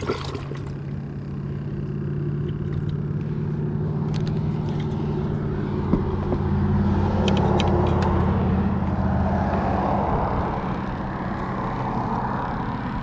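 A motor vehicle's engine running steadily, growing louder with a rushing noise about halfway through and then easing off. A few light clicks are heard along with it.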